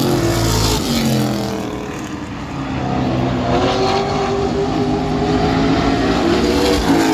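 Several race trucks' engines running at speed on the track, passing by with rising and falling pitch. The sound dips about two seconds in and then builds again as the pack comes around.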